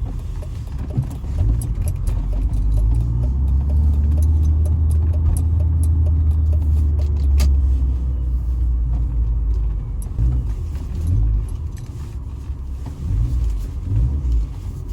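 BMW E36 four-cylinder engine heard from inside the cabin while driving, a steady low drone that builds from about a second in and eases off after about nine seconds, with road noise.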